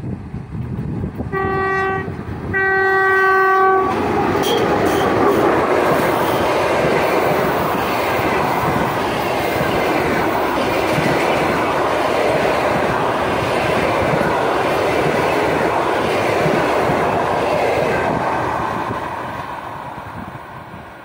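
EP1 electric locomotive sounding its horn twice, a short blast then a longer one, as it comes up. Then the nine-car mail and baggage train passes close by, loud and steady, fading as it draws away near the end.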